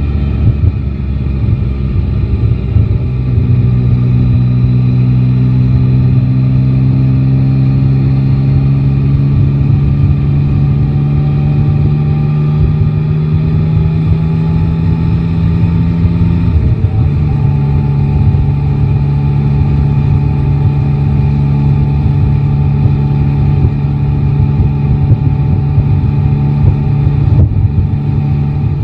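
Yamaha Tracer 9 GT's 890 cc inline-three engine running under way, its pitch climbing slowly for over ten seconds as the bike gains speed. About sixteen seconds in the pitch steps down abruptly, and the engine then runs at a steady pitch.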